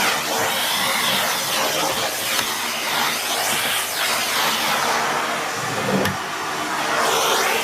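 Vacuum cleaner running with a dusting brush fitted, its airflow hiss rising and falling in pitch as the nozzle is moved over surfaces. A brief low knock about six seconds in.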